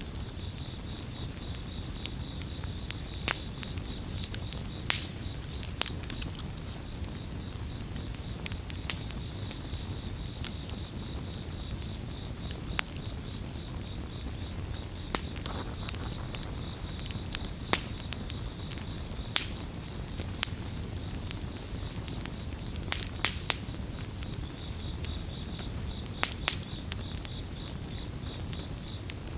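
Campfire crackling, with sharp pops at irregular intervals over a steady low rumble of burning wood. A cricket keeps up a fast, even, high-pitched chirping trill alongside it.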